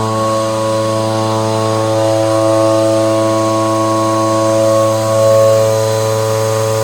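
Small petrol engine of a portable double-bucket milking machine running steadily at constant speed, with a slight swell in loudness about five seconds in.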